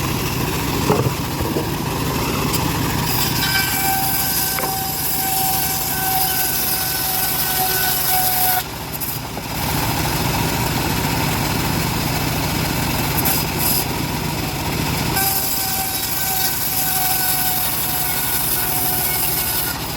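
Homemade bandsaw mill running steadily while sawing johar wood. A high whining tone comes in about three seconds in, stops briefly around the middle, and returns near the end.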